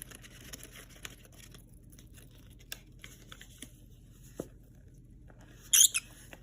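Faint rustling and scratching with a few small sharp clicks, then two short, loud, high-pitched chirps near the end, typical of a pet bird moving about.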